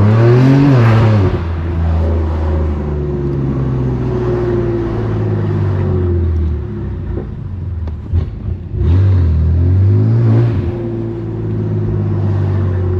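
BMW M3 Competition's S55 twin-turbo inline-six through a straight-piped exhaust, pulling up through the revs at the start, then easing into a steady drone that slowly sinks. It goes quieter for a moment about seven seconds in, then pulls up again about nine seconds in and holds.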